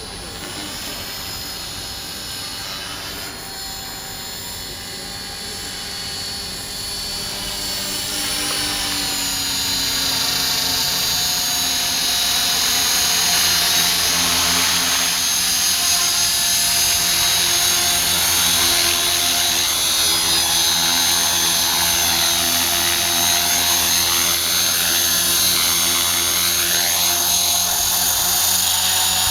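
Electric RC helicopter (Align T-REX 450 Pro with a Scorpion HKII 2221-8 brushless motor) running: the motor whine and rotor sound grow louder about a third of the way in, then hold steady. Near the end the pitch rises and falls several times.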